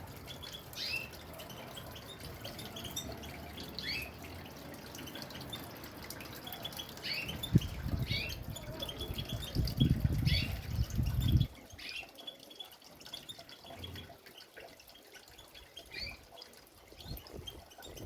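European goldfinch and canary calling, with short chirps, some rising, repeated every second or so. About halfway through, a loud low rumbling noise lasts about four seconds.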